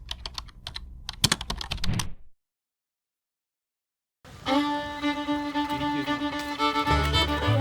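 Quick typing clicks like a keyboard for about two seconds, cutting off into dead silence; about four seconds in, background music starts with sustained tones, and a bass beat joins near the end.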